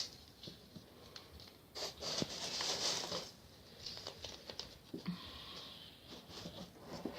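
Masking tape being pulled off the roll in two short rasping strips and pressed onto polystyrene foam, with small handling clicks. A sharp click comes right at the start.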